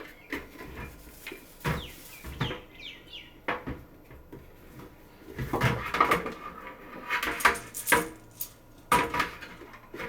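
Plastic humidifier parts and packaging being handled during unboxing: scattered clicks and knocks, a few short squeaks around three seconds in, and denser clattering between about five and a half and seven and a half seconds.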